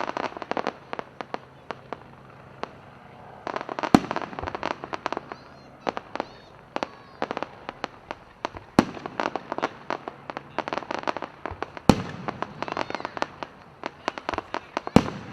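Fireworks display: four loud booms a few seconds apart, with dense crackling and popping throughout.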